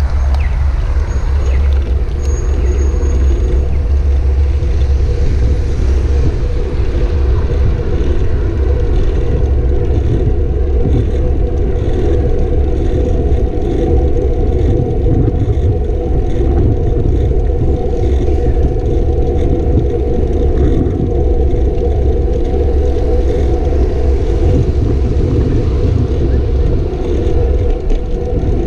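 Steady low rumble of wind and road noise picked up while riding a bicycle along a road.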